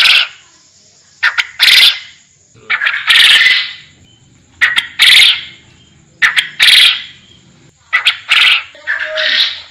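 Forest quail (puyuh hutan) calling over and over, about six calls: each is a quick click or two followed by a longer rough note, repeating roughly every one and a half seconds. A faint steady high whine runs underneath.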